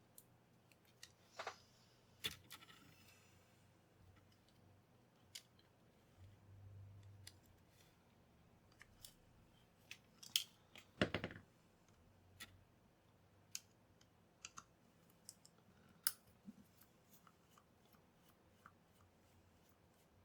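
Sparse small clicks and taps of hand-handling, with a louder scrape about eleven seconds in.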